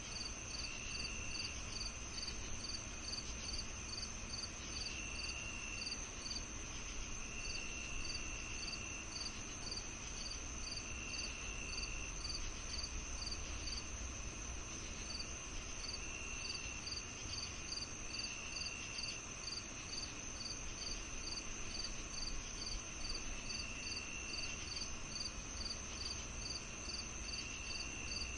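Summer evening insect chorus: crickets chirping steadily about twice a second over a continuous high trill, with a lower trill of about a second coming in every few seconds over a faint low rumble.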